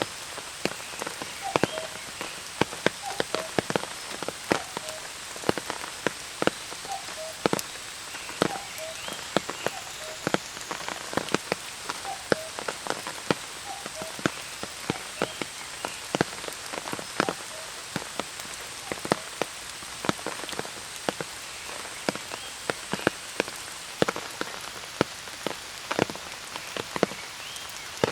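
Rain falling on an umbrella: a steady hiss of rain with many sharp, irregular taps of single drops close by.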